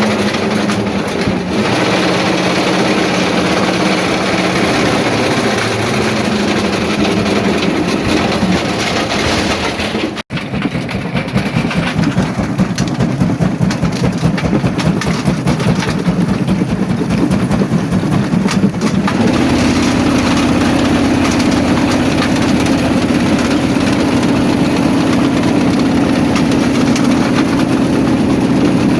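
Quarry jaw crusher plant running with a steady heavy machinery drone. The sound drops out for an instant about ten seconds in and settles into a steadier, higher hum a little before the twenty-second mark.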